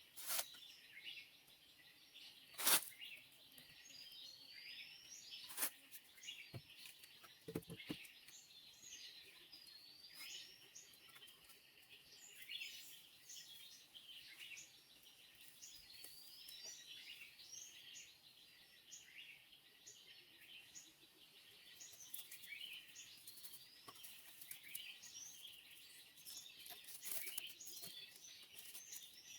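Faint chorus of birds giving short, rising chirps over and over. There are three sharp knocks in the first six seconds, the loudest about three seconds in.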